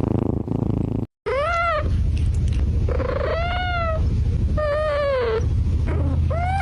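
A domestic cat meowing several times, in drawn-out rising-and-falling calls, over a steady low purring rumble. A sharp cut about a second in breaks the sound briefly.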